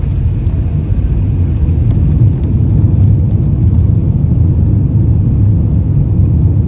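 Boeing 777 jet engines giving a loud, steady low rumble as the airliner lands.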